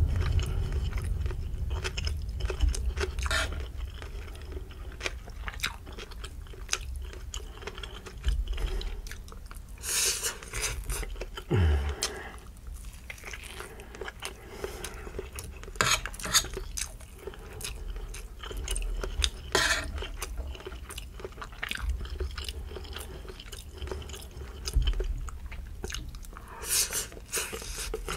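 Close-up chewing and mouth sounds of someone eating canned luncheon beef and fried rice: wet clicks and smacks, with a few louder bites.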